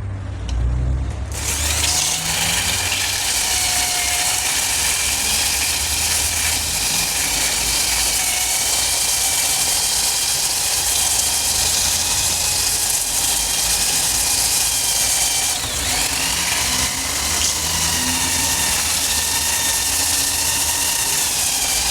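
Electric power tool running steadily, with a high whine over a grinding hiss. About two-thirds through, the pitch sags briefly as if under load, then recovers.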